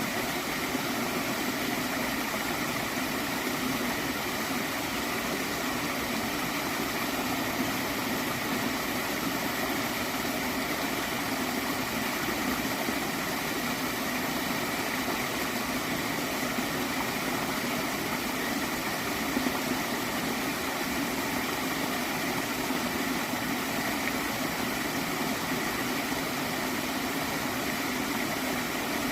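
Water stream flowing steadily with a gentle gurgle.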